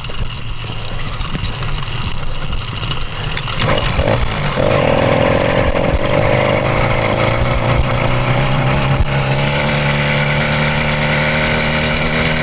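66cc two-stroke motorized bicycle engine running at low revs, then picking up speed about four seconds in and holding a steady, higher pitch.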